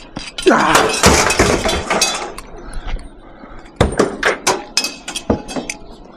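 Scrap metal, including steel radiators, being thrown onto a truck: a long crashing clatter of metal on metal about half a second in, then a string of separate sharp clanks near the end.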